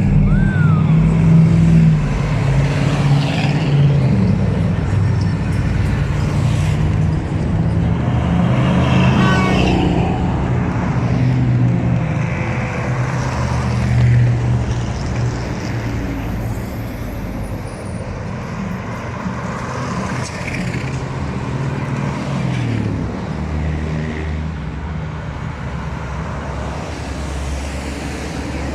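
Heavy trucks' engines running as a convoy drives past, with a low steady engine drone whose pitch sweeps down as vehicles go by.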